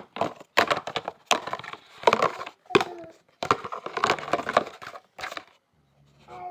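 Hard toy parts clattering and knocking as they are handled, in quick clusters of clicks with short pauses between them.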